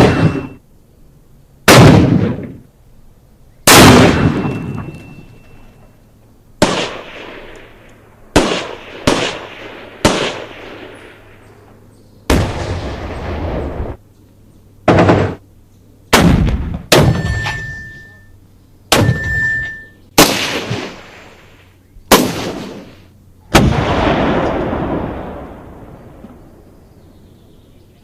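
A series of single gunshots, about fifteen, fired at irregular intervals, some in quick pairs and triples. Each shot ends in a long echoing tail.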